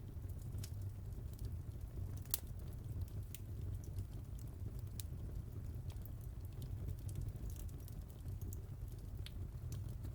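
Wood fire crackling: scattered sharp pops and snaps over a steady low rumble, the loudest snap a little past two seconds in.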